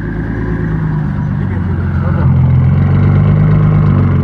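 Boosted 1000 hp Infiniti G37's V6 idling at the exhaust, a steady low rumble that drops slightly in pitch and grows a little louder about two seconds in.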